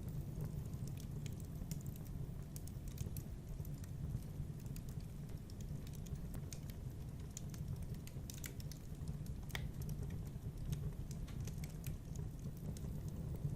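Wood fire in a fireplace burning steadily: a low continuous rumble of flames with frequent small, irregular crackles and pops, one sharper pop about nine and a half seconds in.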